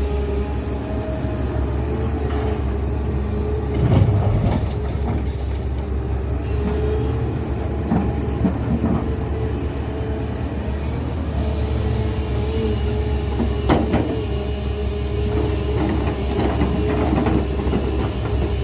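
Heavy earth-moving machine's diesel engine running steadily with a constant whine, with a few sharp metallic knocks and clanks, the loudest about 4 and 14 seconds in.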